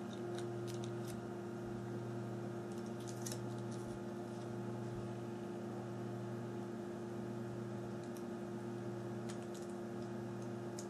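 Steady low electrical hum, with a few faint light clicks and ticks from small phone parts being handled.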